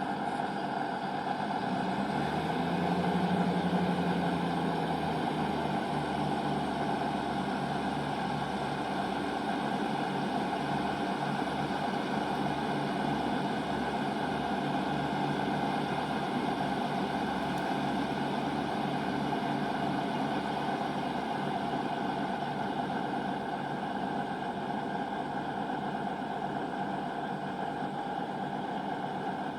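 Diesel train's engine idling at a station platform before departure: a steady hum with a low, even throb. About two to four seconds in, the engine note briefly swells, then settles back.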